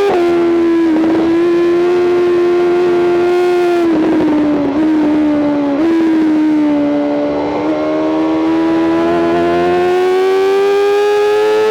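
BMW M 1000 RR superbike's inline-four engine running at high revs under riding load, heard from on board. Its pitch holds high and steady with a few small steps, then climbs steadily through the last few seconds.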